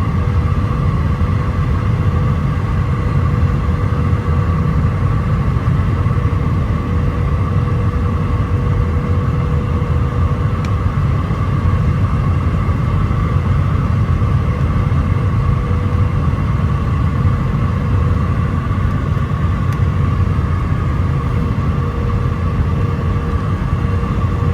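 Airliner cabin noise of an Airbus A319 on final approach: a steady low rumble of airflow and engines, with constant whining tones from its IAE V2500 turbofans.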